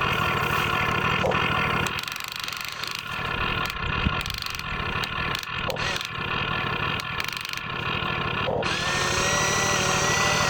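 Small electric motors and gearing of radio-controlled construction models running with a whine. The mechanism clatters in the middle, and a new whine rises slightly in pitch near the end.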